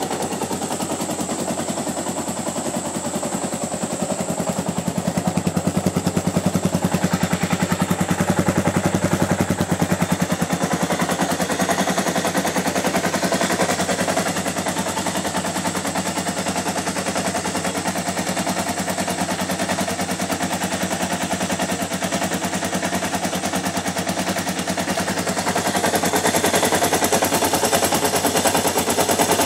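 Yamaha XT600Z Ténéré's air-cooled single-cylinder four-stroke engine running through a Kedo Devil header and GSX-R1000 silencer on its first run after a rebuild, with a fast, even popping exhaust beat. It gets a little louder for a few seconds early on and again near the end.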